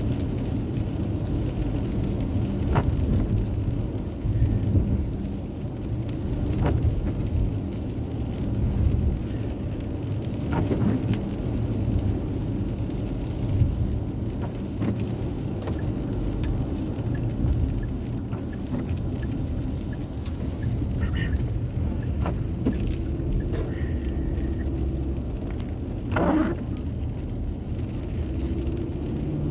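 Steady engine and road rumble inside a moving car's cabin, with a few faint knocks.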